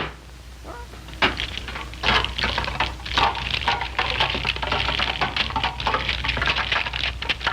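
Dense clattering and crackling made of many quick clicks, starting about a second in, over a steady low hum.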